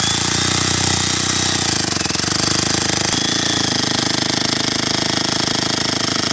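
A small engine running steadily with a fast pulsing beat, slowing into separate pulses near the end.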